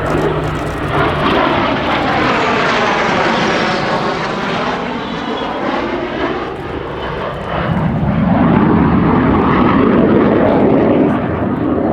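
RCAF CF-18 Hornet's twin jet engines roaring as the fighter flies past, with a sweeping, phasing sound as it goes by. It grows louder about eight seconds in.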